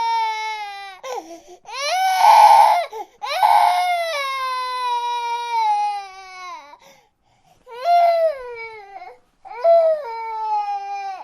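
An infant crying in a run of wails that each fall in pitch. The loudest cries come two to four seconds in, and two shorter cries follow after a brief pause.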